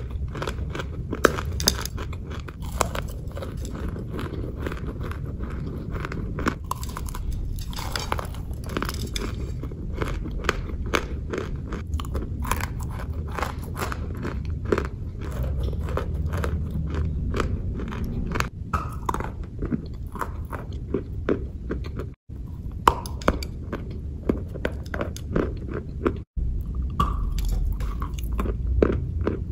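Close-up mouth sounds of a person biting and chewing hard, crunchy food: a dense run of sharp cracking crunches. The sound drops out for an instant twice in the second half.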